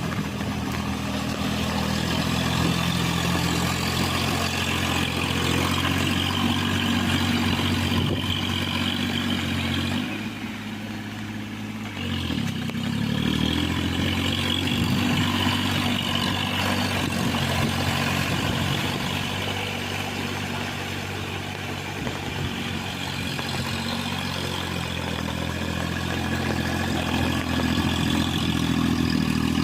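John Deere mini tractor engine running steadily while working a rotavator; about ten seconds in the engine sound drops briefly, then climbs back to speed about two seconds later.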